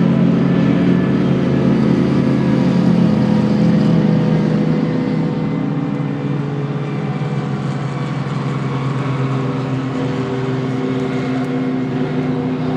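A vehicle engine running steadily at an almost constant pitch, a little louder for the first five seconds or so and then easing slightly.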